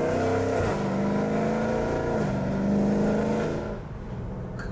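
2016 Dodge Charger Scat Pack's 392 (6.4-litre) HEMI V8 through a Corsa full exhaust under hard acceleration. The pitch climbs, drops with a gear change about half a second in and again about two seconds in, then climbs again before the engine eases off near the end.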